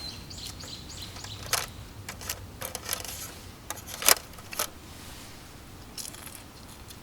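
A series of light clinks and knocks from small hard objects being handled, about half a dozen, the loudest about four seconds in.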